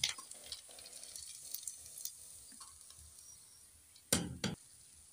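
Fried potato kofte tipped off a steel slotted spoon onto a steel plate, a light clink at the start, over faint sizzling of hot oil in the kadhai. A brief louder clatter comes about four seconds in.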